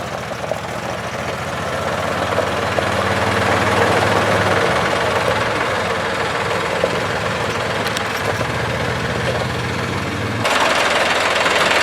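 John Deere potato harvester at work: a steady engine drone under a dense, continuous mechanical rattle. The rattle jumps louder and brighter about ten and a half seconds in.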